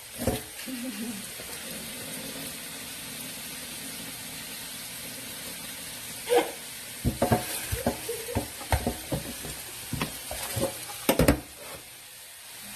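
Food sizzling steadily in a frying pan, stirred with a utensil. In the second half the utensil clicks and knocks against the pan in quick, irregular strokes.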